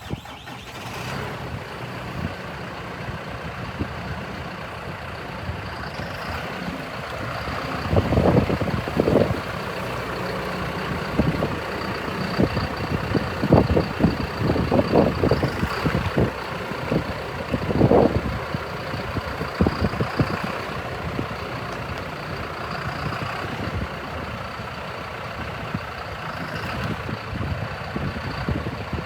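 John Deere 6135E tractor's diesel engine coming on suddenly at the start, then running steadily with a faint high whine. Several louder short bursts come between about eight and eighteen seconds in.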